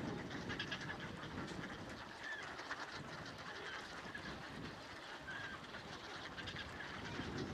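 Scattered short calls of ducks and other waterbirds on a pond, over a steady low background rumble.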